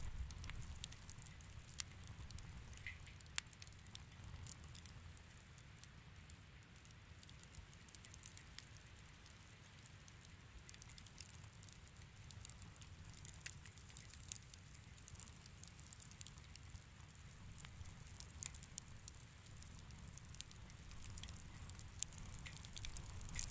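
Fireplace fire crackling faintly, with scattered irregular pops over a low steady rumble.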